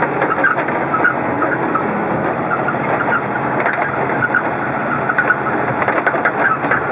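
Vehicle engine running steadily with road noise, and scattered clicks through the middle and later part.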